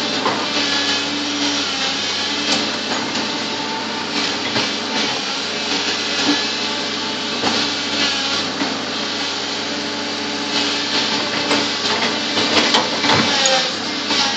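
Bulldozer at work: its diesel engine runs steadily under load, with frequent clanks and knocks and short metallic squeals from the machine and its steel tracks.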